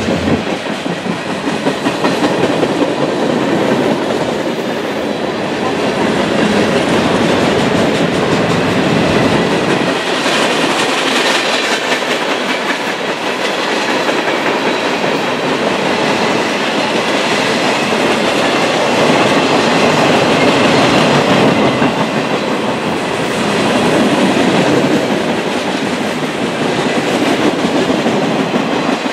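Freight cars of a passing mixed freight train (tank cars, covered hoppers, boxcars) rolling by close at hand: a steady, loud noise of steel wheels on rail.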